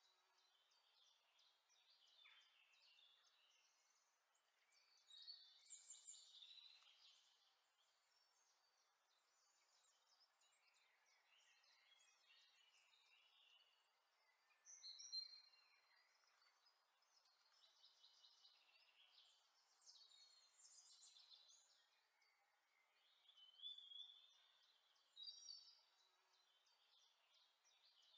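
Near silence with faint bird chirps and whistles, coming in short clusters every few seconds.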